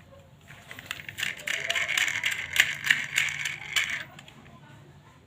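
Toy cars clattering and rattling against one another as they are handled in a box, a dense run of small clicks that stops about four seconds in.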